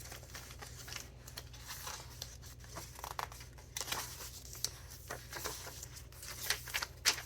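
Paper pages of a thick handmade junk journal being turned and handled, rustling and crinkling in short irregular bursts, loudest just before the end.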